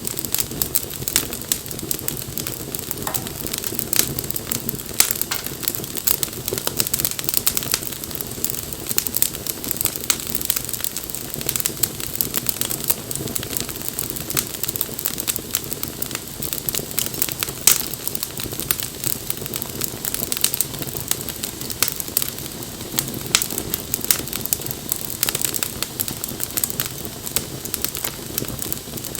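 Wood campfire burning and crackling, with frequent irregular sharp snaps and pops over a steady low rush of flame.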